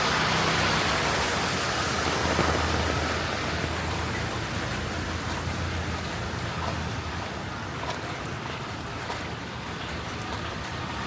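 Hiss of rain and water on a flooded street, loudest in the first few seconds and then easing, with a low engine hum underneath and scattered small drip-like ticks later on.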